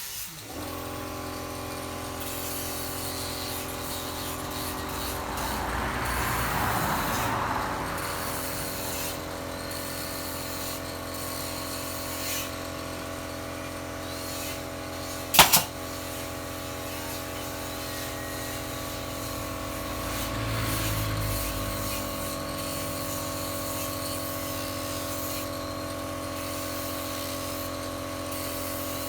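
A hand-held electric power tool starts and runs at a steady speed, with a rougher, louder stretch about six seconds in as it bites into the wood. There is one sharp loud click about halfway through.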